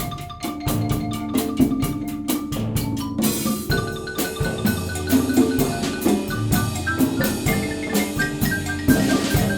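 Student percussion ensemble playing: a xylophone melody in quick, evenly spaced struck notes over other mallet instruments and drums, in a steady rhythm.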